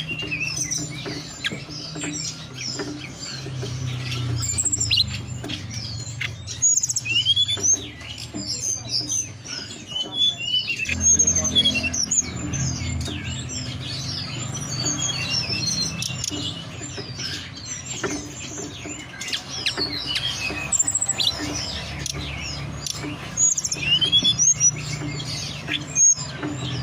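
Tledekan gunung song: a rapid, continuous stream of short chirps and whistled notes that slide up and down, played as a lure call to set caged birds singing. A low steady hum runs beneath it.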